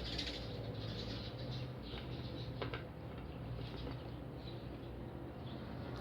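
Close-miked chewing of fried food, with small wet mouth clicks and one sharper click about two and a half seconds in, over a steady low hum.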